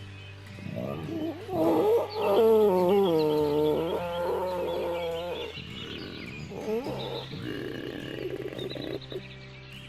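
An animal's loud, long call with a wavering, shaky pitch, followed a few seconds later by a weaker second call.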